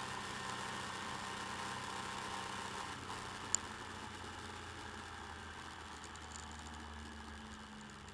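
Motorcycle on the move, its engine and road and wind noise picked up by a bike-mounted camera microphone. There is one sharp click about three and a half seconds in, and the sound slowly gets quieter over the second half.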